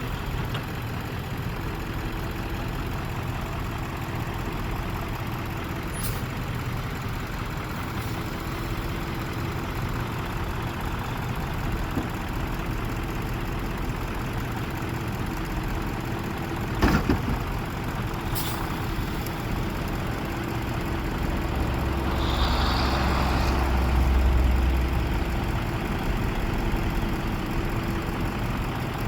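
Truck engine idling steadily, with a single sharp knock about two-thirds of the way through and, soon after, a brief swell of deeper engine sound with a short hiss.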